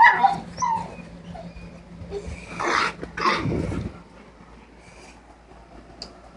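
A dog's excited warbling whine. A loud pitched call comes at the start, then a brief higher call just under a second in, then two short rough, noisy sounds around the middle; after about four seconds it goes quieter.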